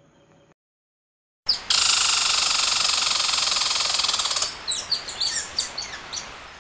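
Squirrel calling: a rapid chattering trill lasting about three seconds, then a string of short high chirps that fade away.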